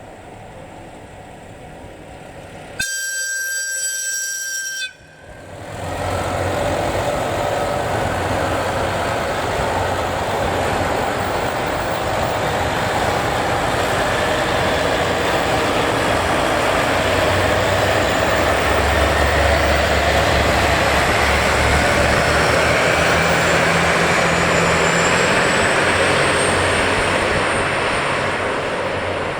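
A train sounds one horn blast of about two seconds, then runs on loudly, with a whine that rises slowly in pitch through the middle and later part.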